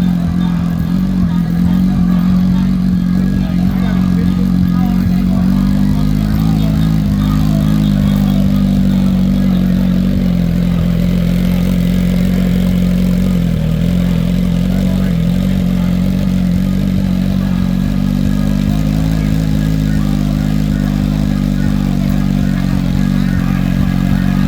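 Motorcycle engine running steadily, an even low drone that holds almost the same pitch throughout.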